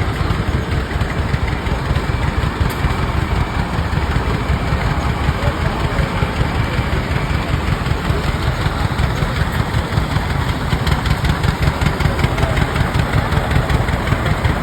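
Antique Rumely OilPull tractor engines running steadily, a continuous fast even chugging with no change in pace.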